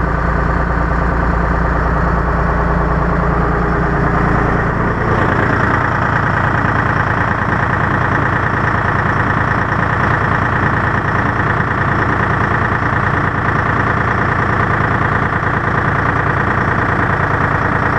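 M561 Gama Goat's Detroit Diesel 3-53 two-stroke diesel engine idling steadily after a cold start following months of sitting; its note changes about five seconds in.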